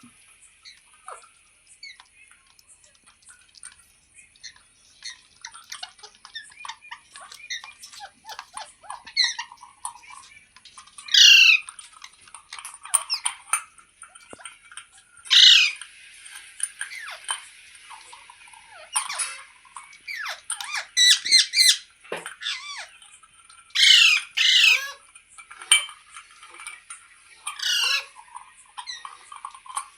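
A pet rose-ringed parakeet (Indian ringneck) squawking: loud, shrill screeches every few seconds, with softer chattering calls in between.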